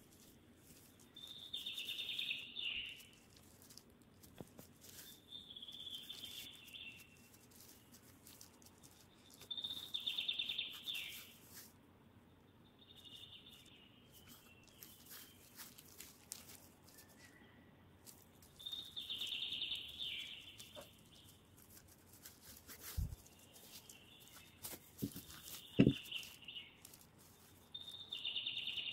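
A bird singing short phrases, each about a second long and dropping a little in pitch, repeated every few seconds. Light clicks and rustles of gloved hands working dough run underneath, with a few sharp knocks near the end, one of them the loudest sound here.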